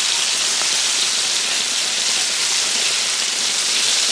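Flour-breaded meat pieces frying in a skillet of hot grease: a steady sizzle.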